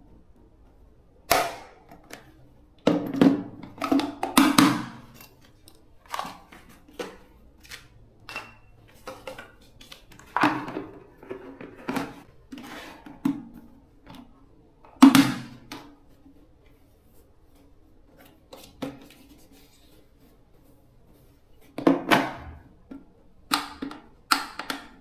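Irregular sharp clicks and knocks, some loud, in uneven clusters over a faint steady hum, like work sounds of handling tools and parts.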